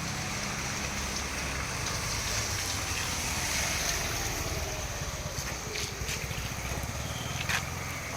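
Car running in heavy rain: a steady low engine hum under a hiss of rain and water, with a few sharp clicks in the second half.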